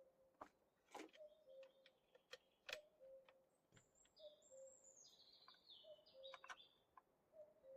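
Faint forest birdsong: a low two-note call, the second note lower, repeats about every second and a half, with higher whistled phrases from another bird in the middle. Scattered short clicks and taps sound throughout.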